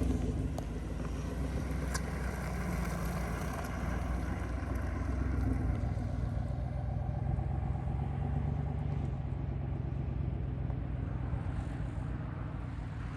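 Exhaust of a 2020 GMC Sierra 1500 fitted with a Magnaflow muffler-delete pipe in place of the muffler, the engine running steadily with a low exhaust note that swells slightly a few times.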